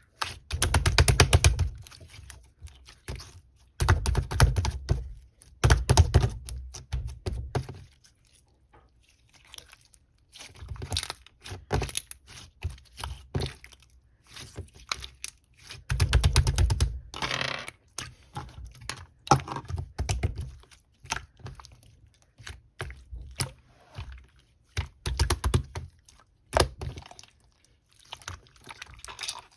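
Slime being squeezed, pressed and stretched by hand, giving bursts of rapid clicking and popping with soft thuds, a few seconds apart.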